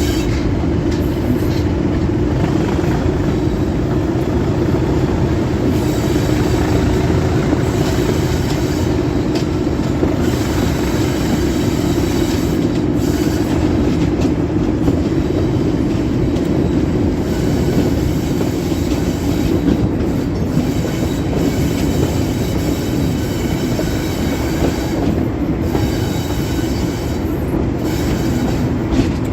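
Diesel-hauled train running steadily, a continuous loud drone of engine and wheels, with a high wheel squeal that comes and goes several times.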